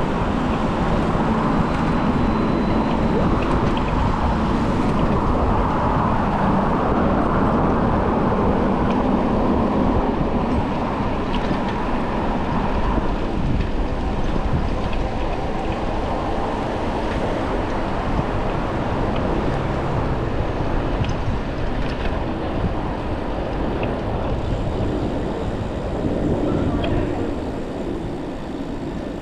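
Steady city road traffic heard from a moving bicycle: vehicle engines and tyre rumble, fairly loud throughout and easing slightly near the end.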